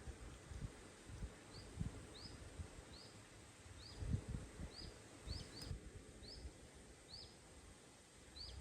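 A small bird calling, a short high chirp that drops in pitch, repeated steadily about once a second, with soft low thuds and rumble underneath.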